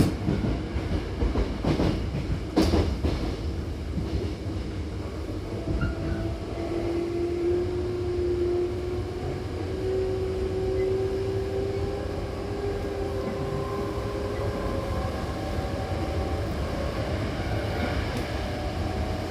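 Hankyu Kyoto Line electric train running, heard from inside the car: a steady rumble with a couple of knocks from wheels over rail joints near the start, and a whine that rises slowly in pitch through the middle.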